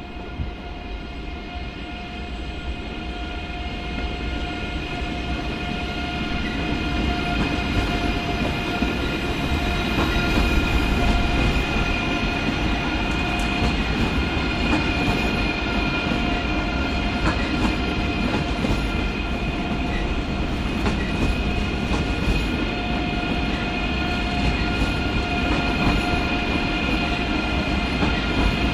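Two coupled ICE 3 high-speed electric trains passing slowly: a low rumble of wheels on rail with a steady whine of several tones and a few clicks. The sound grows louder over the first ten seconds or so as the train comes close, then holds.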